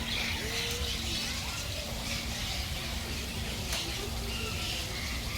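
Outdoor background of faint distant voices and chirping birds over a steady low hum.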